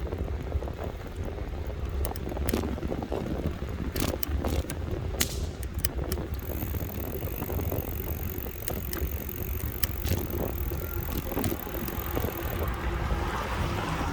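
Riding noise from a moving electric bike: wind rumbling on the microphone, with scattered clicks and rattles from the bike over the road.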